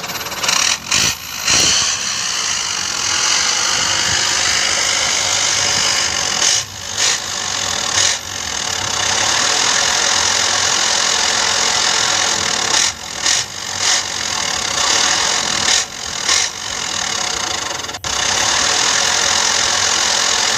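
Truck engine running hard and loud, its sound broken by several brief sudden drops, typical of a truck labouring through deep mud.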